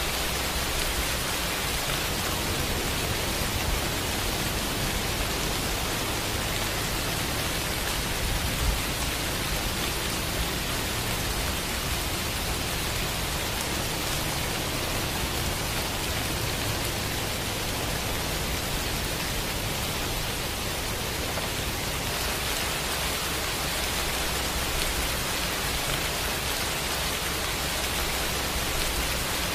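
Steady rain falling, a continuous even hiss, with one brief knock about nine seconds in.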